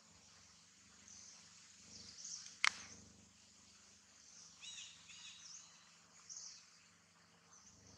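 Small birds chirping in the background: short, high-pitched chirps every second or so, with a quick run of chirps about five seconds in. A single sharp click about two and a half seconds in is the loudest sound.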